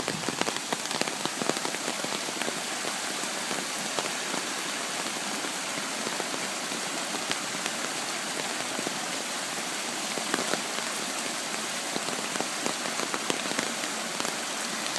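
Steady hiss of water during a flash flood, with scattered faint ticks throughout.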